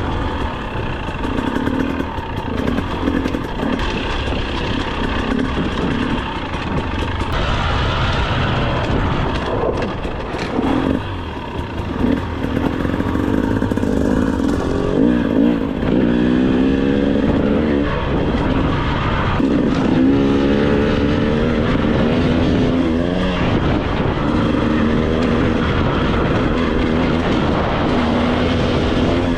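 2025 GasGas EC 300's two-stroke single-cylinder engine running on a trail ride, its revs rising and falling over and over as the rider works the throttle. The engine is new and being ridden gently to break it in.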